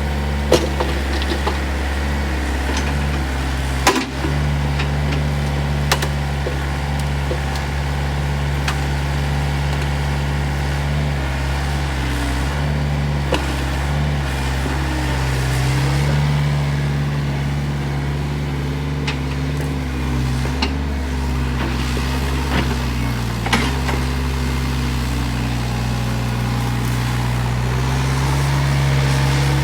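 Volvo ECR88 excavator's diesel engine running steadily under working load, its pitch shifting a little as the hydraulics work and rising in level about halfway through. A few sharp knocks and cracks are heard, near the start, about four and six seconds in, and once more near the end.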